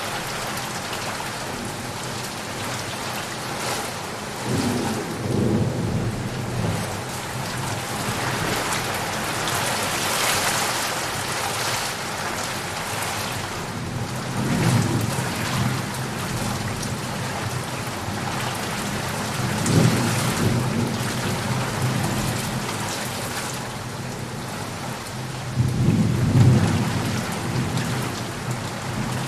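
Steady heavy rain with thunder rumbling in the distance, four low rolls swelling up and dying away, the loudest near the end.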